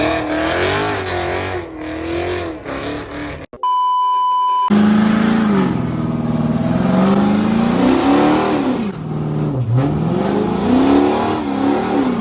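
Car engines revving hard at a car meet, their pitch climbing and falling again and again. About a third of the way in, a steady beep about a second long cuts in, and after it the revving is at its loudest.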